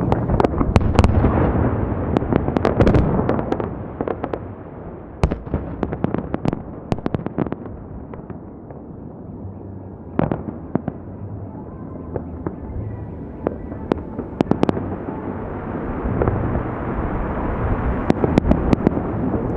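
Fireworks salute bursting overhead: a steady low rumble of shell bursts with many sharp cracks and pops. The bursts are heaviest in the first few seconds and again near the end, and thin out in the middle.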